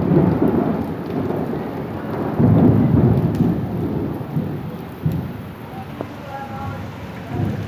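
Rain falling steadily with rolls of thunder, loudest at the start and again about two and a half seconds in, then easing.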